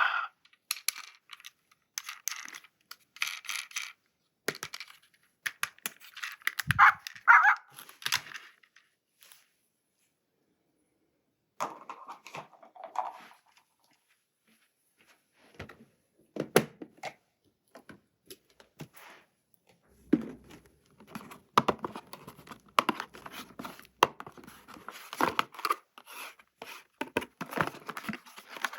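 Toy packaging being opened by hand: scattered tearing and crinkling, with small clicks and knocks. There are two short pauses in the first half, and the handling grows busier in the second half.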